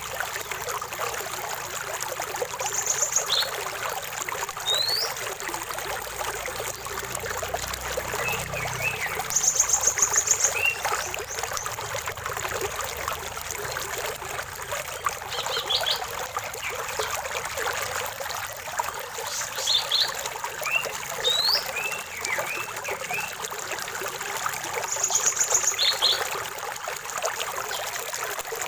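Water trickling and splashing in a small stream, with birds singing over it. A fast, high trill comes three times, the loudest sound each time, among short rising whistles and chirps.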